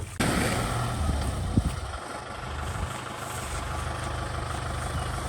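Kubota ZT155 DI single-cylinder diesel engine of a walking tractor running steadily, coming in abruptly just after the start, with a single sharp clack about a second and a half in.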